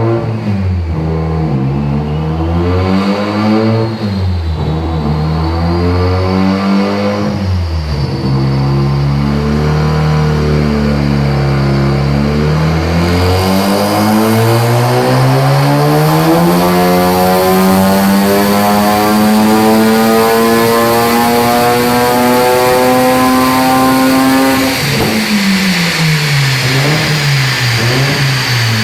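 Mazda RX-7 FD3S twin-turbo rotary engine on a rolling-road dyno: a few throttle blips, then a full-throttle pull with the engine note rising steadily for about ten seconds. Near the end the throttle shuts abruptly and the revs fall away.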